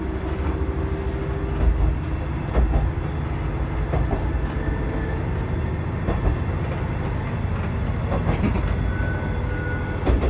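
Diesel railcar of the Kamaishi Line running along the track, heard from inside the car: a steady low rumble from the engine and wheels, with occasional knocks and a faint brief squeal near the start and again near the end.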